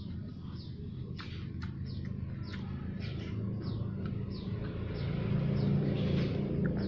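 A bird chirping over and over, short downward-sliding chirps about two a second, over a steady low rumble that grows a little louder about five seconds in.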